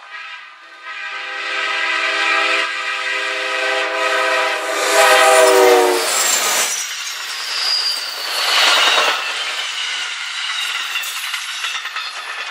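Amtrak passenger train's locomotive horn sounding one long chord, which drops in pitch as the locomotive passes and cuts off about six seconds in. Then the passing train's wheels clatter over the rails, with high squealing from the wheels on the curve.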